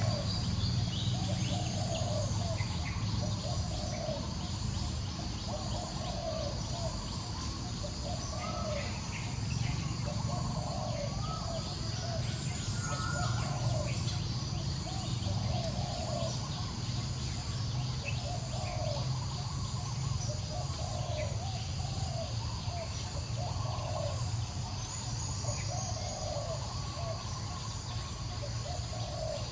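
Outdoor woodland ambience: a bird call repeating about every second and a half over a steady high insect drone, with a low steady rumble underneath.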